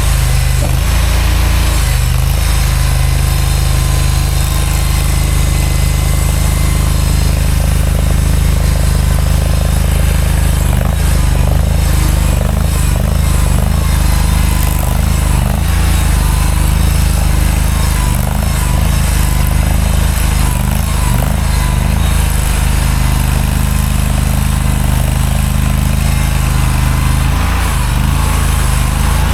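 Mini skid steer's engine running steadily under load, with small wavers in its tone as the machine works.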